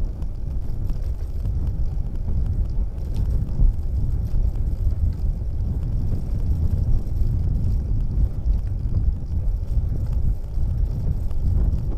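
A steady low rumble with faint scattered ticks.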